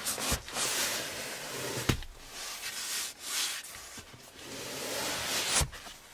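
Rustling and rubbing noise that swells and fades, with a few sharp knocks, about a second in and again near the end.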